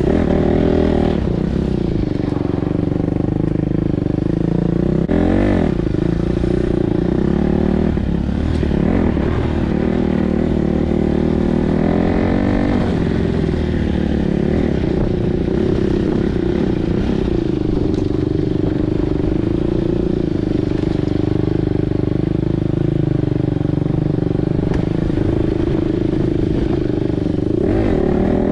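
Single-cylinder four-stroke dirt bike engine running on the trail, its pitch dropping and rising again several times as the throttle is rolled off and back on.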